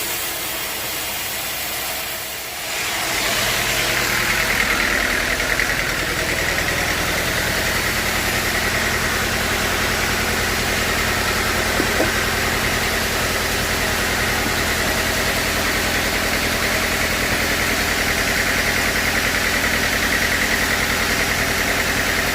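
Sawmill machinery running steadily. About three seconds in the sound changes and gets louder, settling into a steady high whine over a low, even hum.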